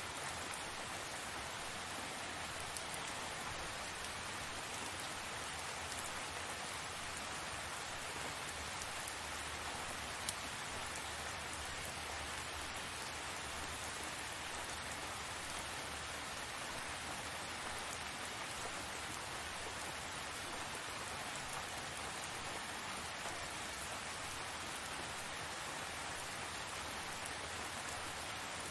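Steady rain falling, an even hiss of drops with scattered sharper drop ticks.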